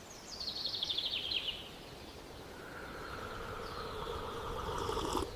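A songbird's quick trill of rapid notes falling in pitch, lasting about a second, over faint outdoor ambience. A fainter steady tone follows in the second half.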